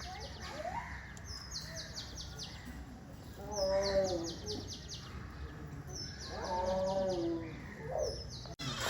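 A songbird repeating the same short, high phrase about four times, a couple of seconds apart: a single note, then a quick run of notes. Twice, once near the middle and again later, a louder lower call rises and falls over the bird.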